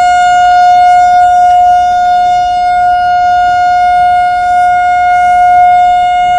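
Electric train's horn sounding in one long, steady, unbroken blast at a single pitch.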